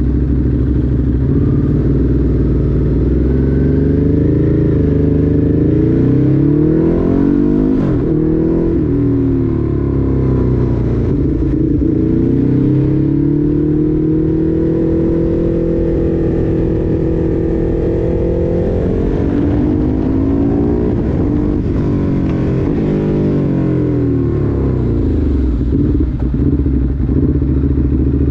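Ducati Hypermotard's L-twin engine heard from the rider's seat as the bike is ridden: the pitch climbs over the first few seconds, drops sharply about eight seconds in, climbs again and holds steady, falls around twenty seconds in, and settles to a low, even run near the end.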